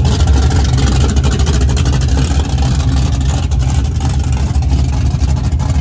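Loud drag-race car engine running steadily at low speed, a deep even sound with no revving.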